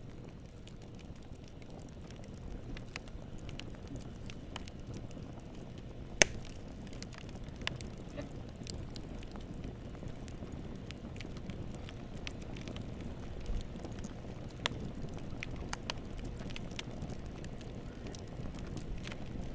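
Fireplace fire crackling: a steady low rumble of flames with scattered pops and snaps, one sharp loud pop about six seconds in.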